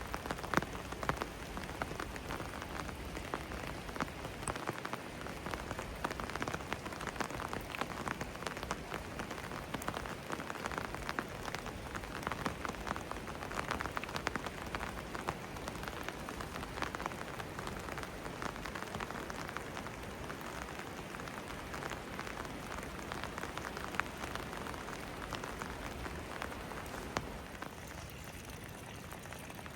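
Steady rain falling, with a dense patter of close raindrop hits that eases slightly near the end.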